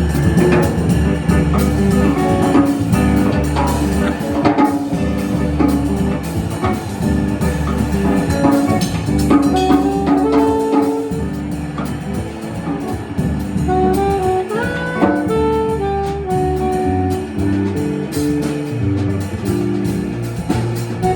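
Jazz quartet playing, with a horn-like melody line of shifting and gliding notes over a drum kit and low accompaniment.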